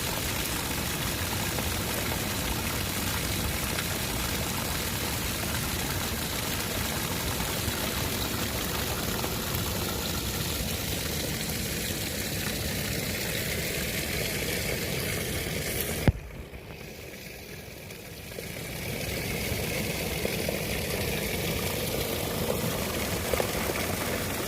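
Steady rushing wash of seawater at the shore. A sharp click comes about two-thirds of the way through, followed by a couple of seconds of quieter sound before the wash returns.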